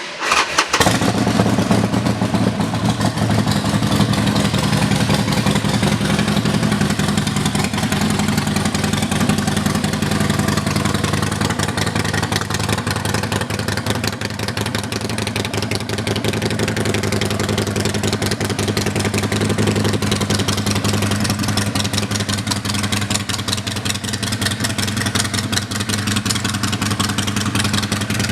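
Harley-Davidson Sportster 1200 V-twin starting up in the first second, then idling steadily through aftermarket Screamin' Eagle exhaust pipes, which are really loud.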